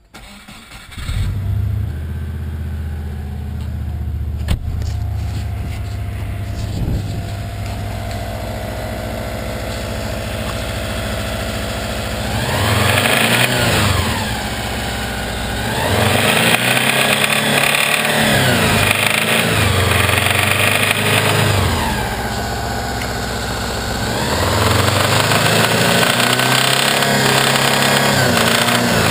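Subaru Legacy boxer engine starting about a second in, idling, then revved up and back down three times, with its cam belts exposed. It carries a noise that the owner says is not the belt tensioners or pulleys and seems to come from inside the engine.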